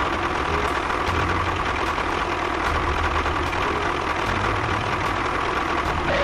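Small engine running steadily with a low, pulsing rumble, which cuts off just at the end.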